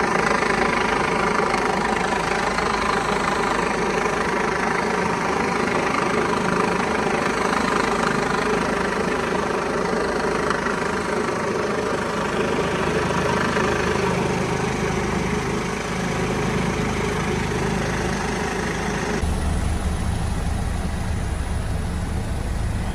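Rescue helicopter's turbine engine and rotor running steadily. About nineteen seconds in, the sound turns lower and duller.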